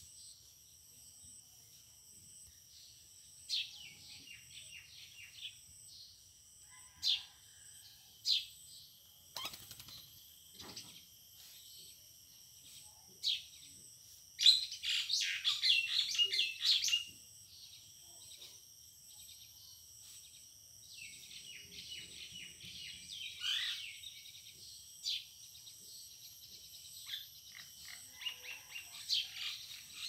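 Small wild birds chirping and twittering in short bursts, with the busiest and loudest run of chirps about halfway through, over a steady high insect drone.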